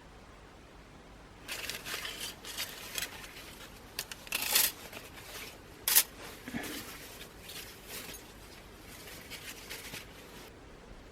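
Irregular rustling and scraping of things being handled, with scattered sharp clicks, the loudest about six seconds in.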